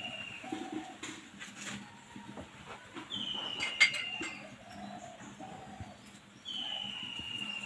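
Bird calls repeating every few seconds, each a single slightly falling whistle about a second long, with shorter, lower notes in between. About four seconds in, a metal spatula gives one sharp clink against the paratha pan.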